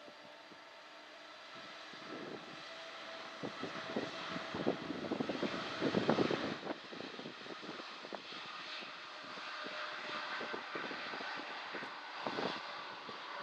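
Boeing 787-9 Dreamliner's jet engines at takeoff power as it departs. The noise builds to a crackling peak about six seconds in, then settles to a steadier level.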